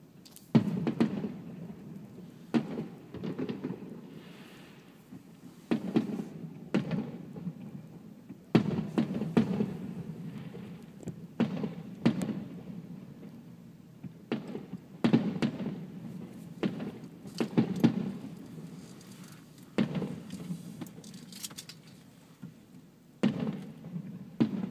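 Aerial fireworks bursting: a long irregular string of booms, roughly one every second or two, each trailing off in a low rolling rumble.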